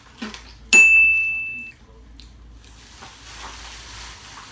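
A single bell-like ding about a second in: one clear high tone that rings out and fades over about a second.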